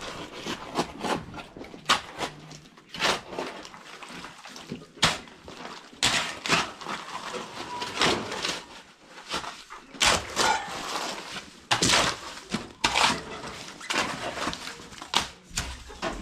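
Irregular scraping and knocking of hand tools working wet cement, with the strokes coming at uneven intervals.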